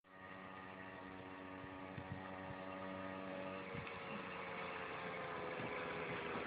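Small engine of a motorized bicycle running at a steady pitch and growing gradually louder as the bike approaches.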